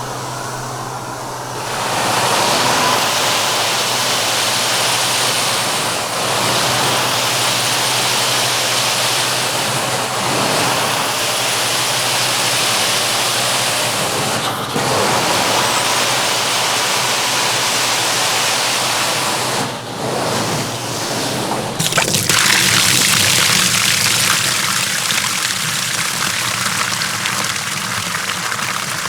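Carpet-cleaning extraction wand run by a truck-mounted system: a loud, steady rush of suction and water spray over the carpet, broken by short pauses about 15 and 20 seconds in, with the sound changing about 22 seconds in.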